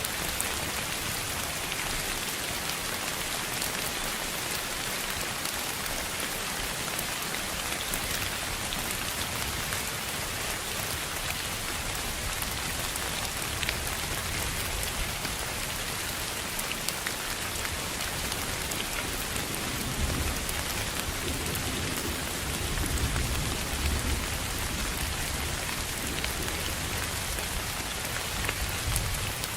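Steady rain pattering on a surface, with many small drop ticks over an even hiss. A low rumble swells about two-thirds of the way in and fades a few seconds later.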